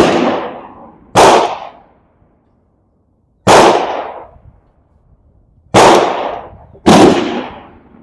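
Four loud gunshots, spaced about one to two seconds apart, each with a sharp crack and a tail that dies away over about half a second.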